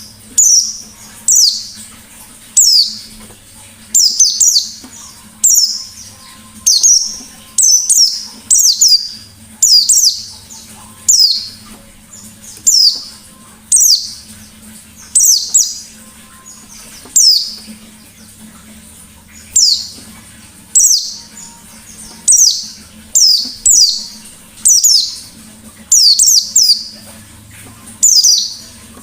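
White-eye (pleci) singing in wild 'ngalas nembak' style: loud, sharp, high notes that sweep steeply downward, repeated about once or twice a second, over a faint low hum.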